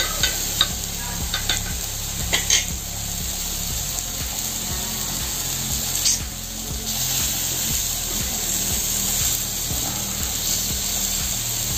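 Masala-coated pineapple slices sizzling as they fry in ghee on a hot tawa, with a few light clicks in the first few seconds.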